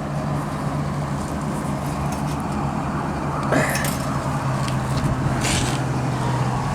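A steady low hum runs throughout, with two brief handling sounds, about three and a half and five and a half seconds in, from an old motorcycle tool bag being gone through.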